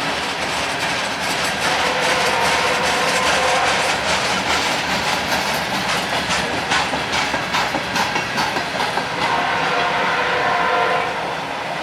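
CPKC freight train rolling past, its wheels clicking over rail joints, with the clicks sharpest and most regular between about six and nine seconds in. A steady tone sounds for a couple of seconds near the end.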